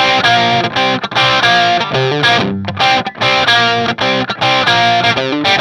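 Music: an electric guitar with distortion playing a run of changing chords.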